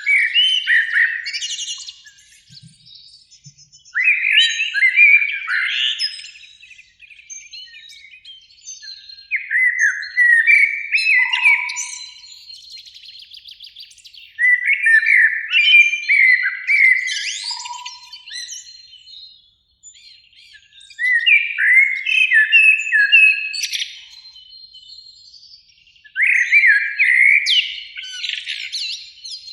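Eurasian blackbird singing: a fluting phrase of warbled notes every few seconds, each ending in higher, thinner twittering, with pauses between phrases.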